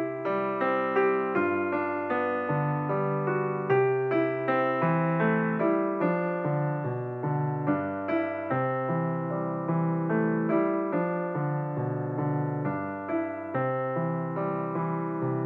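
Background piano music: a gentle run of separate notes with no break.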